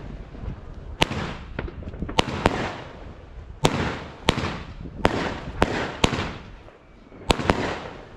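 Consumer fireworks battery firing shot after shot: sharp reports every half second to a second, each trailing off briefly, with a short lull before a quick run of three shots near the end.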